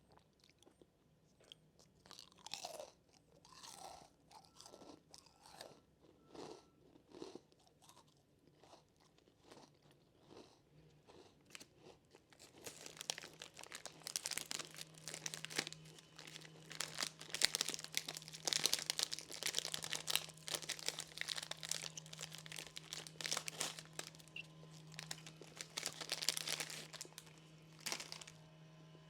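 Close-miked crunching and chewing of a crunchy snack. A few scattered bites come first, then steady, louder crunching from about halfway through.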